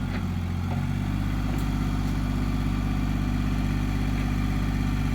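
An engine idling steadily with a low, even hum; its tone shifts slightly just under a second in.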